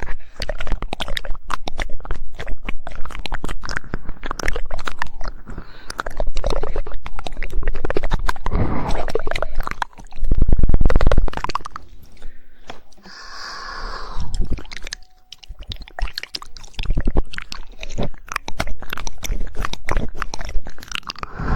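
ASMR mouth sounds close to the microphone: many quick tongue clicks and wet, smacking mouth noises. About ten seconds in, a loud, muffled low rumble lasts about a second and a half.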